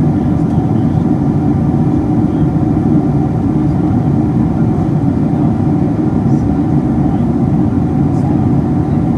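Steady low roar of a Boeing 777-200's engines and airflow heard from inside the passenger cabin, with a few faint steady tones above it.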